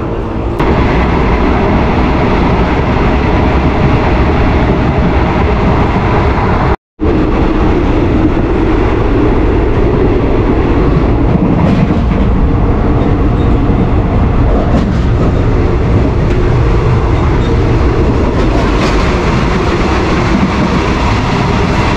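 Third-class passenger train carriage in motion, heard from inside: a loud, steady rumble and rattle of wheels on the rails and the shaking coach. The sound cuts out for a moment about seven seconds in, then resumes.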